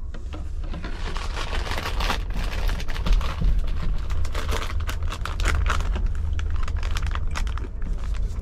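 Irregular crinkling, rustling and clicking of things being handled close by, over a steady low rumble.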